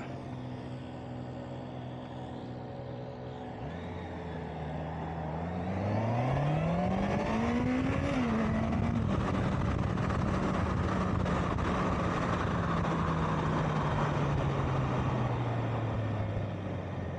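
Honda CBR650R's inline-four engine pulling away: its note climbs steadily for a few seconds, drops once at a gear change about eight seconds in, then holds and slowly falls as the bike cruises and eases off. Wind rushes over the microphone.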